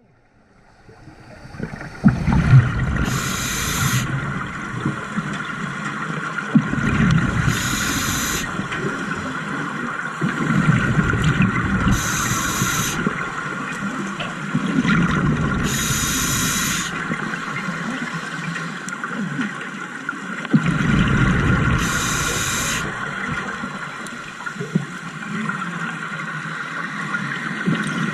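Scuba diver breathing through a regulator underwater: a sharp hiss of each inhalation about every four to six seconds, with the low bubbling rumble of exhaled bubbles between breaths. A faint steady whine runs underneath.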